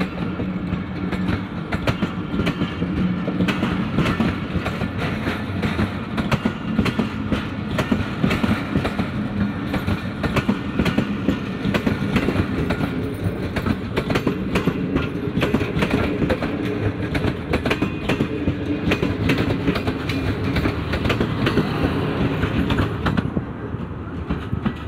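Passenger train coaches rolling past close by: steel wheels clatter over the rail joints in a dense run of clicks over a steady rumble. The noise drops away near the end as the last coach goes by.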